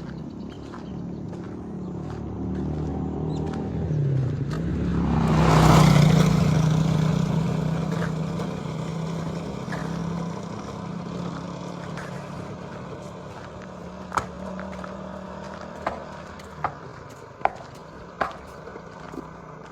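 A motor vehicle's engine approaches and passes close by. It is loudest about six seconds in with a rush of noise, then fades away. Several sharp knocks follow near the end.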